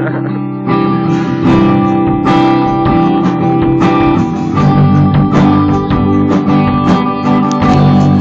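Acoustic guitar strummed in steady chords, changing chord about halfway through and again near the end.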